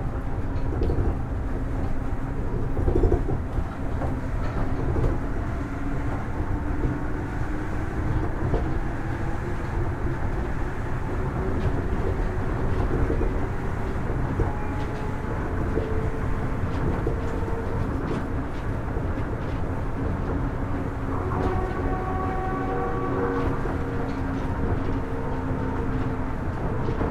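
Kitakyushu Monorail Series 1000 straddle-type monorail running between stations, heard from on board. A steady low rumble from the rubber-tyred running gear lies under the whine of the Hitachi IGBT-VVVF traction inverter and motors, several steady tones that glide slowly. Higher tones join briefly a little past the two-thirds point.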